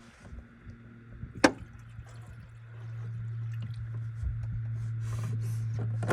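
Coolant poured from a plastic jug into the car's radiator, with small splashing and glugging. A sharp click comes about a second and a half in, and from about three seconds in a steady low hum joins.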